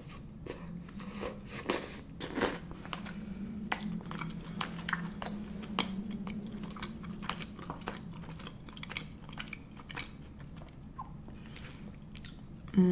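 A person chewing a stick of chewy Korean rice cake (tteokbokki), with many irregular mouth clicks and smacks over a low, faint hum.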